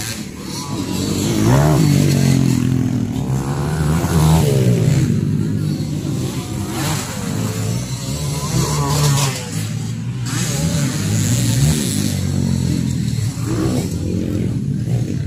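Motocross bike engines racing, revving up and falling back again and again as the bikes accelerate and shift, with more than one engine heard at once at times.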